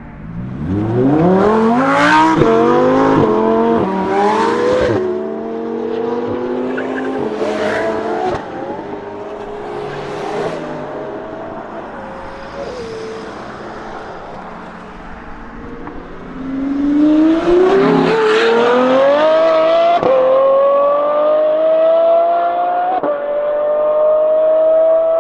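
Lamborghini Huracán STO's naturally aspirated V10 accelerating hard, its pitch rising and dropping sharply at each of several quick upshifts, each shift marked by a crack. It eases off partway through, then pulls hard again through more upshifts near the end.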